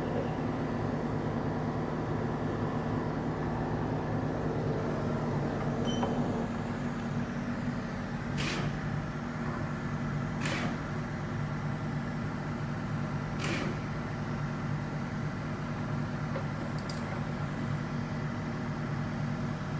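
Steady mechanical hum of running machinery, with four sharp metallic clicks of hand tools on a partly dismantled engine spread across the middle and later part.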